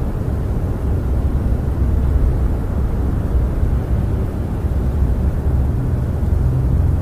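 Snowstorm wind heard from inside a camper: a steady, deep rumble with slight surges.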